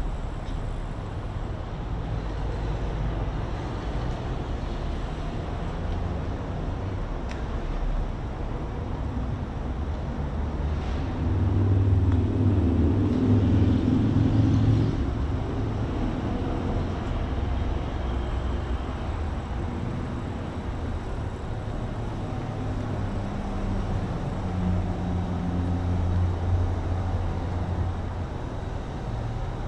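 Steady low rumble of road traffic. A louder vehicle passes about a third of the way in and fades a few seconds later.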